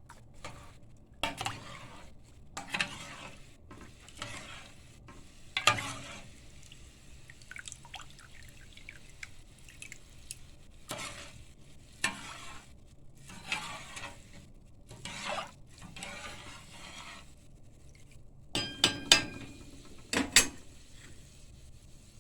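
A kitchen utensil scraping and stirring against cookware in repeated strokes, then a few sharp ringing clinks near the end.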